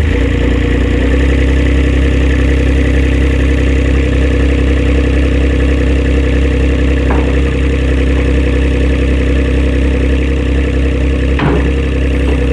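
Site dumper engine running steadily at raised revs, loud and even, with a couple of short clicks partway through.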